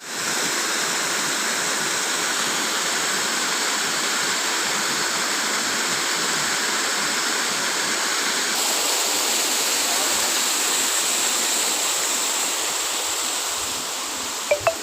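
Waterfall rushing: a steady, dense noise of falling water, with a slight change in its tone about halfway through. Two short, sharp sounds come close together near the end.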